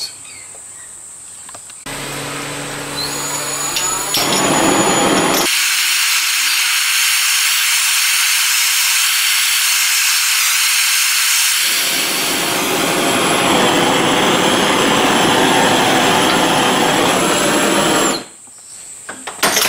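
Gas blowtorch burning with a loud steady hiss as its flame heats a steam-engine cylinder casting on a bar, to free it from the bar. The hiss fills out to a fuller, lower rush about two-thirds through and cuts off suddenly near the end, after a lower hum in the first few seconds.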